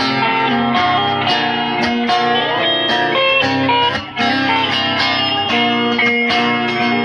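Live band music in an instrumental break, led by guitar over a steady beat, with no singing; the sound drops out for a moment about four seconds in.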